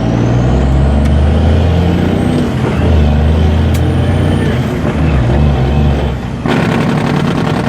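Loud, steady low drone of a vehicle engine running, like a heavy vehicle in traffic. About six and a half seconds in it gives way abruptly to a harsher, rattling buzz.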